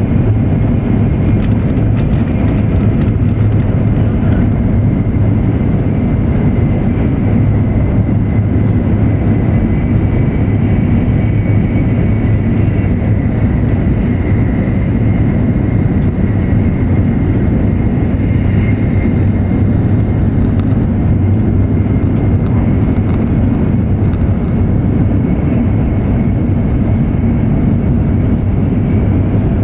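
E7 series Shinkansen running at speed, heard inside the passenger car: a steady, loud running rumble with a faint steady high tone above it.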